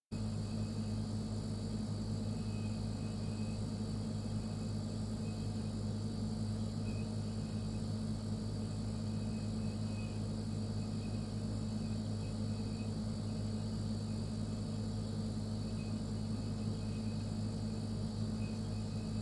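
Refrigerator running with a steady low electrical hum and a faint high whine above it, cutting in suddenly at the start.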